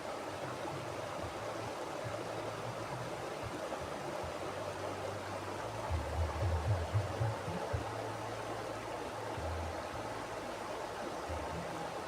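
Mountain river water flowing in a steady rushing stream. About halfway through, a brief low rumble rises under the water for a second or two.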